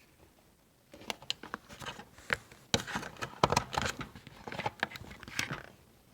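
Handling noise: a rapid, irregular run of clicks, taps and rustling starting about a second in and stopping shortly before the end.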